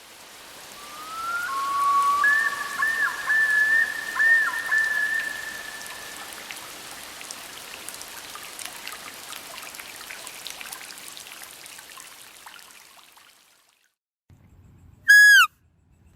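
Whistled animal calls over a steady hiss. Two long held whistle notes, one higher than the other, with quick dips in pitch, run for a few seconds, and the hiss fades out after about thirteen seconds. Near the end comes one short, loud call falling in pitch.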